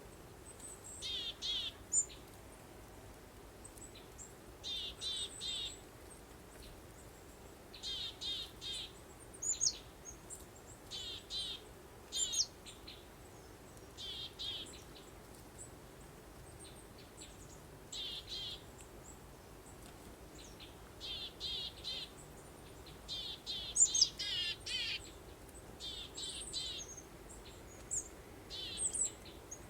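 Small birds singing: short phrases of three to five rapid high notes, repeated every second or two, with occasional sharper chirps between them. They sit over a faint, steady background hiss.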